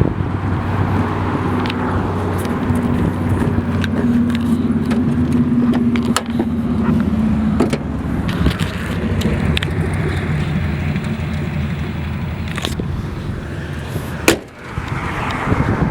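2003 Chevrolet Avalanche's V8 engine running steadily, its pitch dropping about eight seconds in. Scattered light clicks sound over it, with one sharp click near the end.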